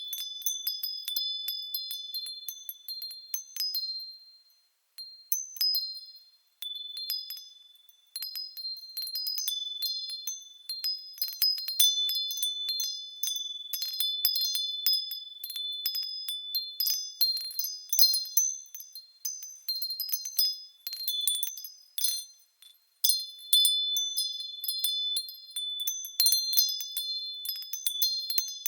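Japanese furin wind chimes ringing irregularly in the breeze, with clear high tinkling tones that overlap and fall silent briefly a few times.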